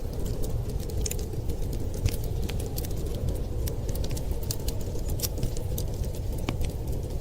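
Wood fire crackling in a fireplace, with frequent irregular sharp pops and snaps over a steady low rumble of storm wind.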